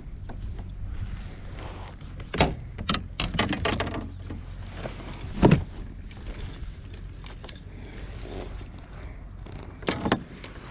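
Scattered clicks, rattles and knocks of gear being handled in a fishing kayak, with one louder knock about halfway through and a short cluster near the end, over a steady low wind rumble.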